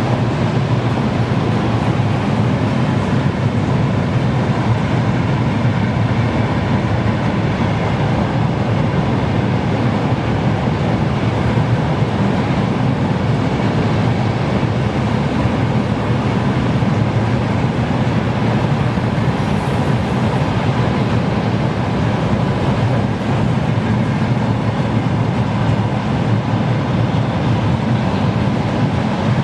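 Freight train rolling past steadily, the continuous rumble of wagon wheels on rails, with a faint steady whine running through it.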